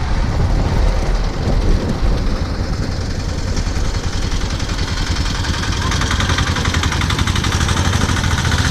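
A two-wheeler's small engine running while riding, a steady low rumble with a faster buzzing note coming through about six seconds in, and wind on the camera microphone.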